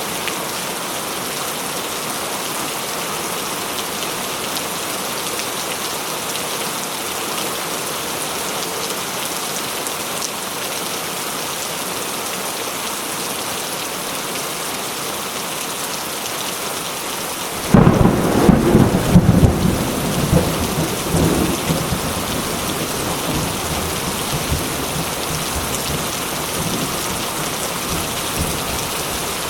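Steady heavy rain falling on surfaces, with a sudden loud thunder clap a little past the middle that rumbles on for a few seconds and fades.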